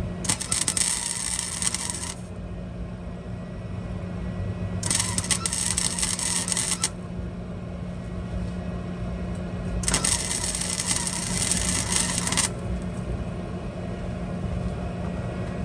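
Welder arc crackling in three bursts of about two seconds each, with pauses between, while a steady low hum runs underneath: short tack welds on a steel exhaust delete pipe.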